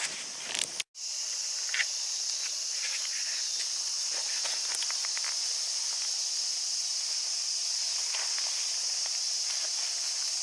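Steady high-pitched drone of a summer insect chorus, with scattered light taps and clicks. The sound drops out briefly about a second in.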